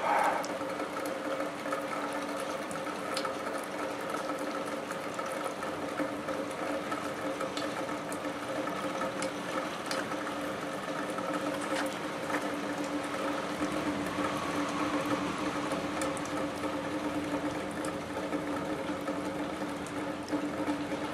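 A steady mechanical hum at a few fixed pitches over a low rush of noise, with a few faint ticks.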